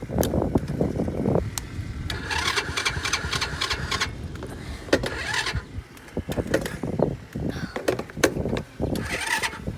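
Small four-wheeler's electric starter cranking in uneven bursts without the engine catching, which the adult takes for a nearly dead battery.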